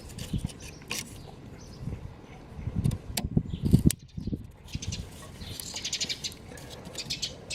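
Scattered sharp clicks and handling noises of hands working on the DPF pressure sensor's electrical connector and fittings, with a brief run of fast chirpy squeaks about two-thirds of the way through.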